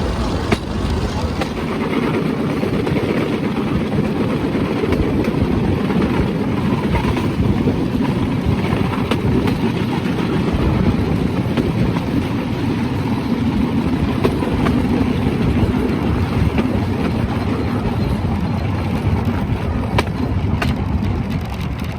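Bamboo train (norry) under way: its small engine running steadily with the rumble of the bamboo platform on the track, and a few sharp clacks near the end.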